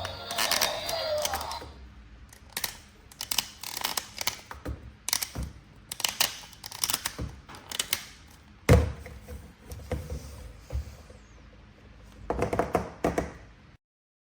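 Irregular clicks, taps and knocks of plastic being handled during a toy-figure unboxing, with one louder thunk about nine seconds in and a quick cluster of clicks near the end before the sound cuts off to silence. A song fades out in the first two seconds.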